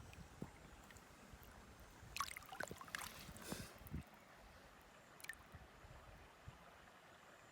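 Creek water splashing and sloshing in a short irregular cluster about two to four seconds in, over the faint steady flow of a small stream.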